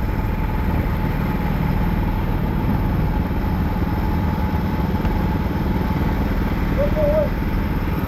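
Go-kart engines running on the circuit, a steady drone.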